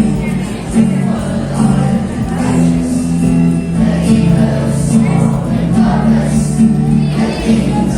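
Many voices singing a school anthem together over steady instrumental accompaniment.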